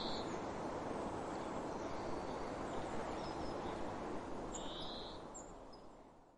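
Steady rushing water with wild birds calling over it: a short harsh call right at the start and another about five seconds in, and a few faint high chirps between. Everything fades out near the end.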